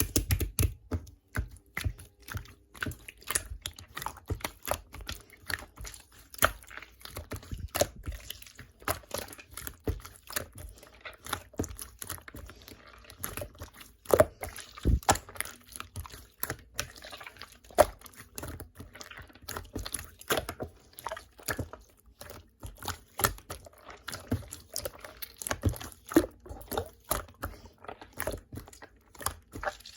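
Slime being squished and poked by hand: a steady run of sticky, wet clicks and small pops, several a second, with a few louder pops.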